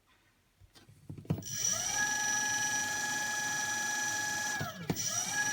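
Car alternator converted into a brushless motor spinning up with a rising whine, then running at steady speed with a high, even electric whine. Near the end it briefly drops out and spins back up.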